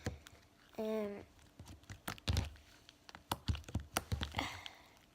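Slime being squeezed and worked by hand, giving a run of irregular small clicks and pops. A brief hummed voice note comes about a second in.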